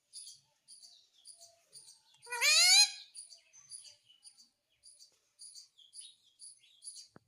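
Pet ring-necked parakeet calling: one loud, rising squawk about two and a half seconds in, over soft high chirps that repeat about twice a second.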